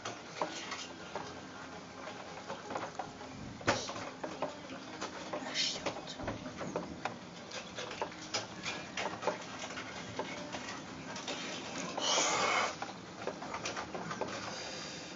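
Rain pattering on a window pane, with many irregular drop clicks over a steady hiss of rainfall. A brief louder hiss comes about twelve seconds in.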